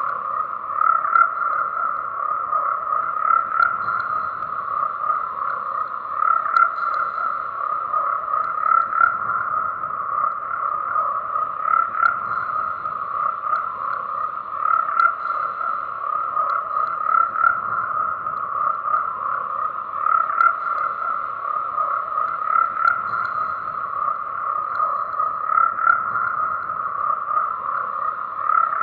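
A dense chorus of frogs croaking steadily, with many calls overlapping without pause.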